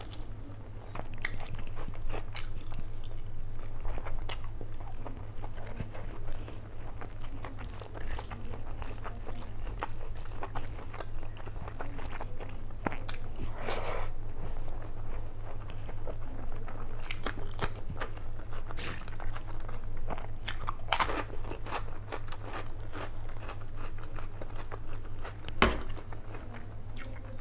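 Close-miked chewing of mutton biryani eaten by hand, with many small mouth clicks, over a steady low hum. One louder knock near the end as a metal spoon goes into the bowl of mutton curry.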